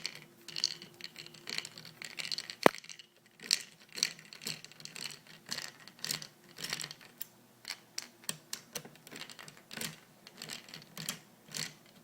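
A screwdriver backing a small screw out of an airsoft AK's body, with irregular light clicks, scrapes and rattles of metal and plastic parts being handled, and one sharp click about two and a half seconds in.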